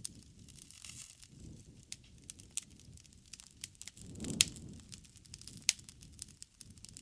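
Wood campfire crackling, with many sharp pops and snaps over a low rumble of burning flames; a louder pop with a swell of flame rumble about four seconds in.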